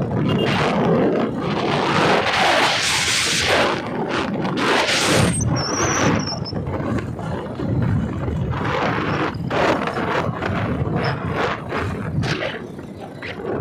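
Wind buffeting the microphone of a moving bike, a loud, gusting rush. A brief high thin whistle sounds about halfway through.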